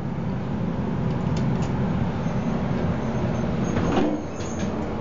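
Dover elevator car travelling, a steady low rumble heard from inside the car, with a single click about four seconds in.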